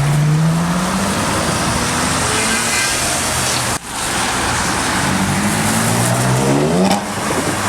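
A supercar's engine accelerating hard at full volume, its pitch climbing twice, with a brief break in the sound between the two climbs.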